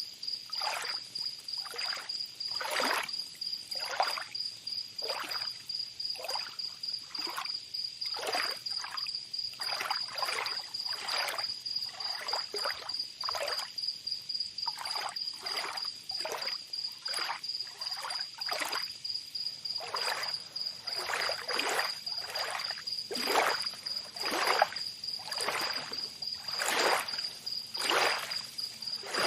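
Tropical beach ambience: small waves lapping and splashing in quick, uneven strokes about once or twice a second, under a steady high, pulsing trill of insects.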